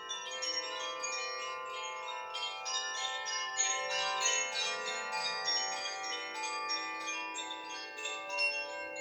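Koshi chimes being swayed: the clapper strikes the tuned rods inside the bamboo resonance box again and again, giving a continuous cascade of overlapping bell-like tones that ring on into one another.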